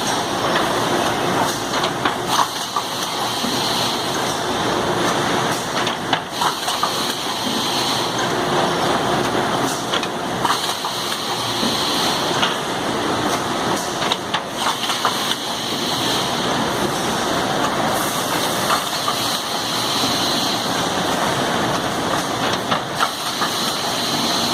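Drilling machine with an automatic part unloader running: a steady mechanical noise with a higher hiss that swells and fades every four to five seconds as the machine cycles.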